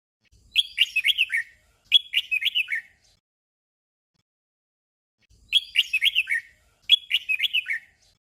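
Red-whiskered bulbul singing a short doubled song: two quick phrases of bright whistled notes, each note falling in pitch. After a pause of over two seconds the same pair of phrases comes again.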